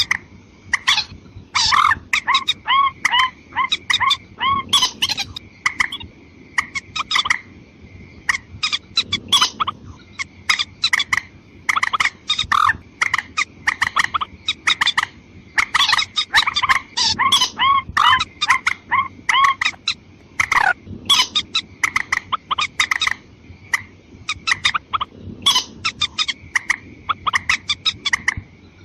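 Recorded rail (mandar) calls played as a bird lure: a rapid series of short, sharp calls, repeated in bouts, over a steady high tone.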